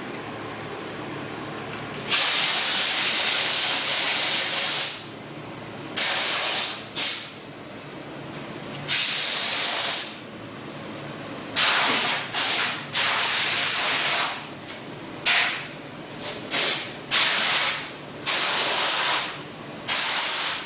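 Steam cleaner's hand gun releasing bursts of hissing steam, triggered on and off about a dozen times: the first burst lasts nearly three seconds, the rest a second or less. A steady hum from the steam machine runs underneath.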